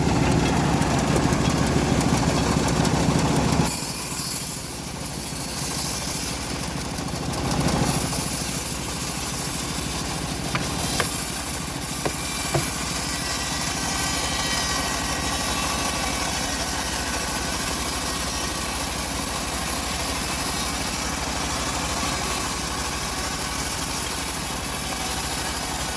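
Engine of an Indonesian-assembled bandsaw sawmill running steadily; about four seconds in its low, heavy part drops away, and it runs on evenly and thinner after that.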